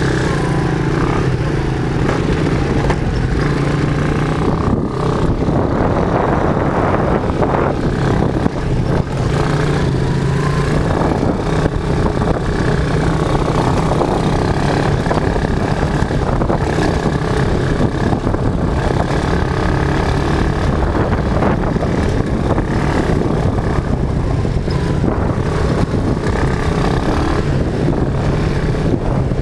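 Quad bike (ATV) engine running steadily under way, a constant low drone with little change in speed.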